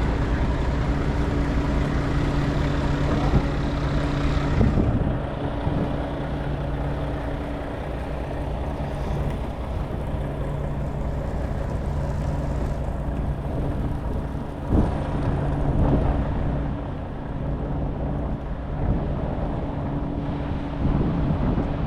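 City street traffic: a motor vehicle engine hums steadily under general road noise, fading and returning, with a couple of brief knocks.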